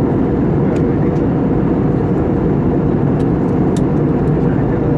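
Steady drone of an airliner in flight, heard from inside the passenger cabin: engine and airflow noise, even and unchanging, with most of its weight in the low range.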